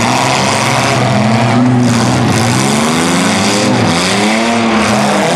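Engines of several mid-size demolition derby cars revving up and down at once, their pitches rising and falling over one another as the cars accelerate and back off around the arena.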